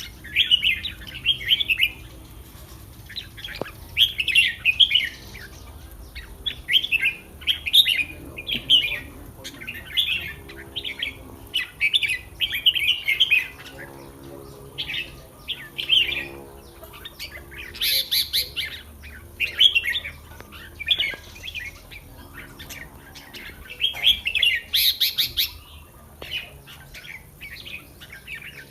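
Red-whiskered bulbul singing short, bubbly phrases one after another, every second or two, with a couple of sharper, higher notes about two-thirds of the way in and again near the end.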